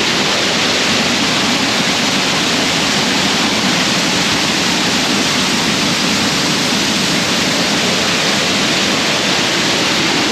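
Waterfall at close range: a loud, steady rush of falling water.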